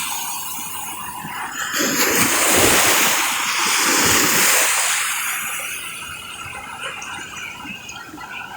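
Ocean surf: a wave breaking and washing in, its hiss swelling about two seconds in and fading away, with water splashing.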